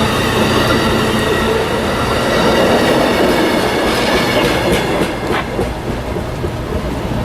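A train rolling past on the rails: a steady, loud rumble, with wheels clicking over rail joints about four to five seconds in.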